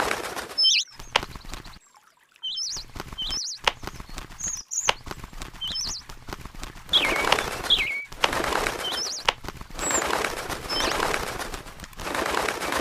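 A small bird chirping in short, high, wavering calls, two of them stronger near the middle, amid stretches of rustling noise and a few sharp clicks.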